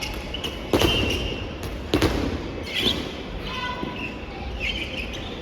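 Two sharp smacks of a soft volleyball, a little over a second apart, each echoing briefly in a large gym hall.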